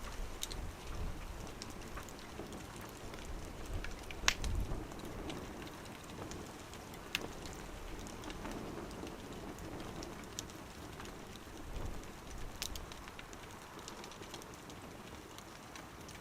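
Wood fire burning in a small wood stove: a steady soft hiss with sharp crackles and pops every few seconds, the loudest pop about four seconds in.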